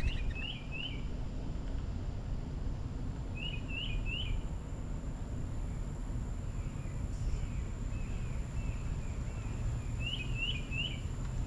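Small bird chirping: quick high chirps in tight runs of three, repeated a few times with fainter chirps between, over a steady low rumble.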